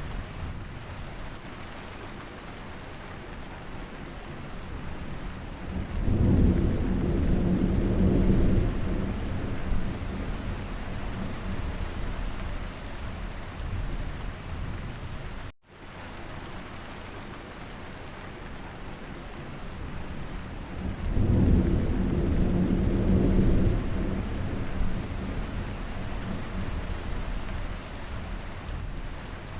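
Steady rainfall with two low rolls of thunder, each lasting a few seconds, about a quarter and three quarters of the way through. A brief dropout in the sound about halfway.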